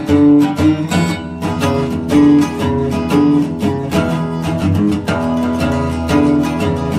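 Background music: fast, rhythmic acoustic guitar playing with strummed and plucked notes.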